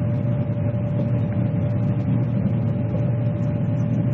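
Boat motor running steadily: an even low hum with a constant higher tone over it.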